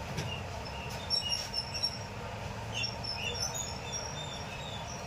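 Birds chirping in short, high, scattered calls over a steady low hum, with a couple of light clicks in the first second.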